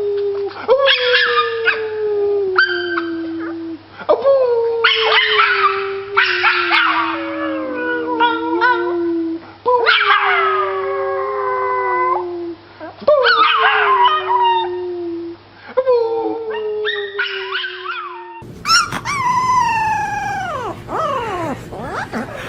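A dog howling: a run of long howls, each sliding down in pitch, with sharper yelps and whines mixed in. Near the end a different dog's higher, wavering howl swoops steeply down.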